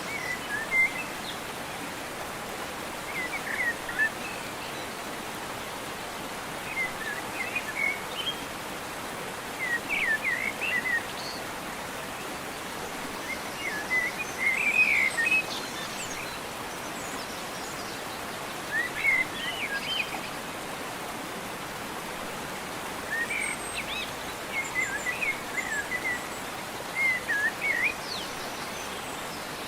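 Birds chirping in short, quick phrases every few seconds over a steady background hiss.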